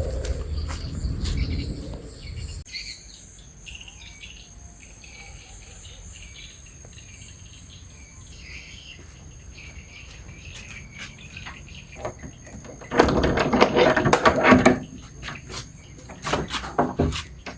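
A steady high-pitched insect trill with short chirping calls over it. About thirteen seconds in comes a loud, noisy stretch of a second and a half, followed by several sharp clicks.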